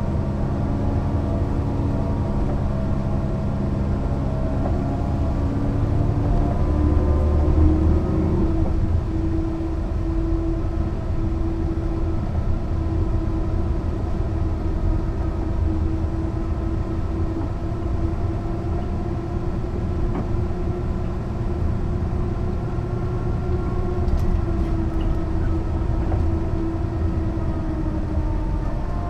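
Mercedes-Benz O 405 NÜ low-floor bus under way, its six-cylinder diesel engine running with a steady drone; the engine note climbs over the first eight seconds, holds steady, then eases down near the end.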